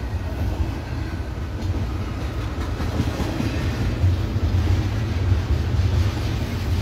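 Double-stack intermodal freight train's container-laden well cars rolling past at trackside: a steady, loud low rumble of steel wheels on rail.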